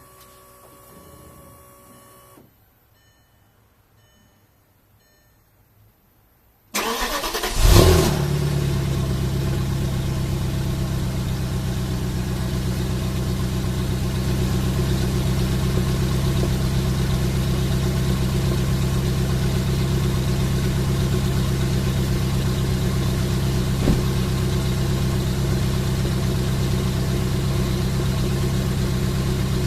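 Volkswagen Passat W8's 4.0-litre W8 engine cranking and starting about seven seconds in, flaring briefly, then settling into a steady idle. Before the start there is a faint whir and three short beeps.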